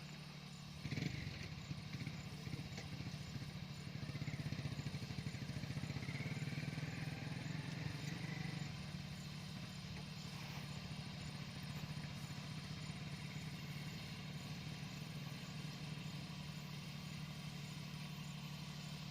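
Mini tractor engine running steadily, with a sudden rise in level about a second in and a louder stretch from about four to nine seconds.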